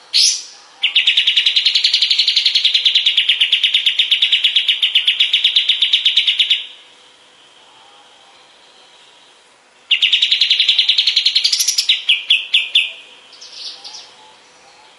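Kapas tembak bird singing: a rapid trill lasting about six seconds, then after a pause a shorter trill that slows into a few separate notes.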